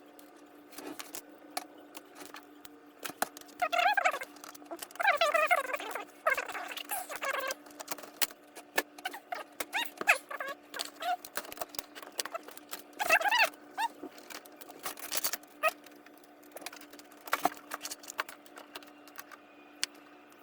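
Clicks and taps of laptop parts being handled and put back together, with bursts of short squeaks, over a steady low hum.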